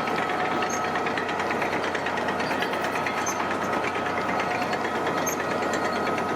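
Heavy construction machine's diesel engine running steadily, with a fast even clatter and a steady high whine over it.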